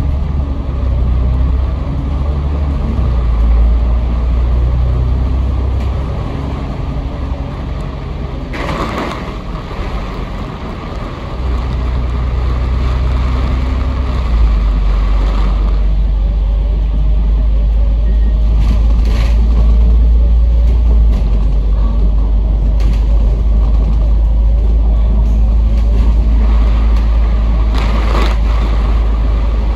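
A Kowloon Motor Bus running along the road: a steady heavy rumble from the engine and tyres, with the engine note shifting a few times. Three short hisses come about 9, 19 and 28 seconds in.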